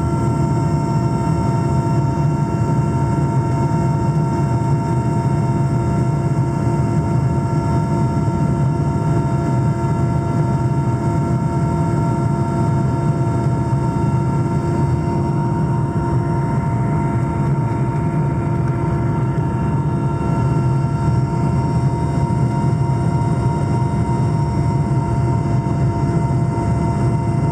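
Helicopter in flight: a steady, loud engine and rotor drone, with a constant whine of several even tones over a low rumble.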